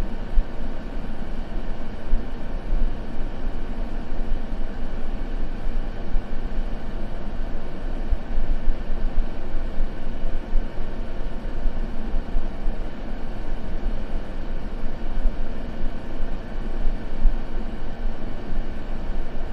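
Continuous sleep white-noise track: a steady, deep noise weighted toward the low end, with no pops or crackles.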